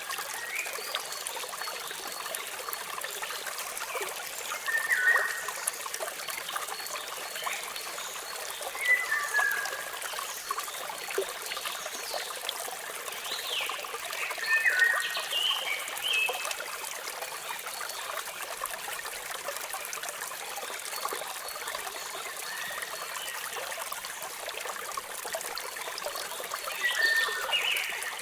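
Steady rush and trickle of falling water from a waterfall, with short bird calls of a few falling notes breaking in now and then: about 5 and 9 seconds in, a cluster around 13 to 15 seconds, and again near the end.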